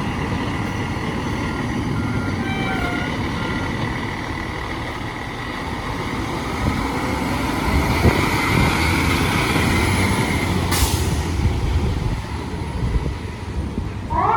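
Fire engine running with a loud, steady engine note, with a few short beeps early on and a brief sharp hiss of air about eleven seconds in. Its siren starts winding up just before the end.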